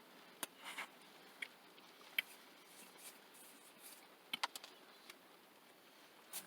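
Quiet room with a few faint, short clicks and ticks scattered through the pause, the loudest near the end.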